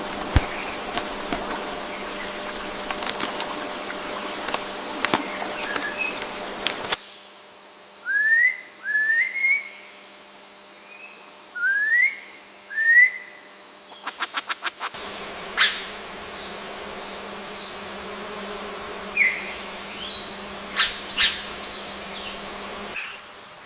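Wild birds calling in three stretches. The first is a busy chorus of chirps over a steady hiss. The middle holds pairs of short rising whistles, then a quick dry rattle. The last has scattered sharp chirps and calls.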